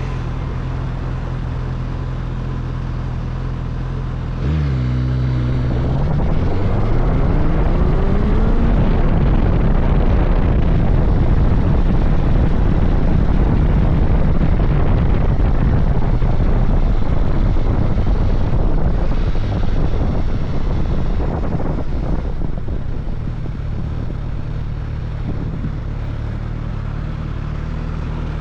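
Suzuki GSX-S1000GT's inline-four engine running steadily low, then opening up about four seconds in with a rising pitch as the bike pulls away. It runs louder at speed for a long stretch, then eases back to a steady low hum near the end.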